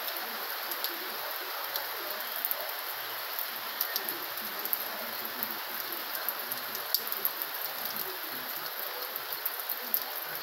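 Steady rain, an even hiss with scattered drops tapping close by, as the rain picks up in intensity.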